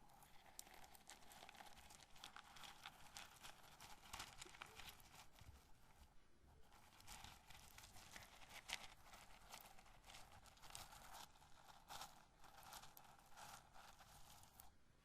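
Roasted corn kernels handled close to the microphone, a faint, dense crackle of small clicks with a brief lull about six seconds in.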